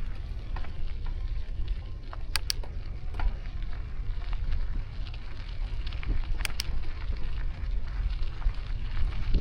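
Wind rumbling on the microphone and tyre and road noise from a moving bicycle, with a steady crackle. Two pairs of sharp clicks, one about two and a half seconds in and one about six and a half seconds in.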